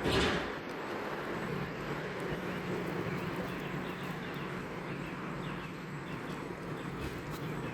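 Steady background hum of distant road traffic, with a brief loud whoosh at the very start.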